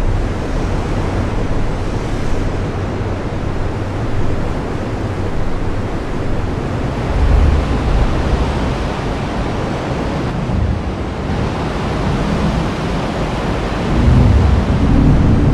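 Heavy rain falling steadily, a dense even hiss, with deep low rumbles swelling about seven seconds in and again near the end.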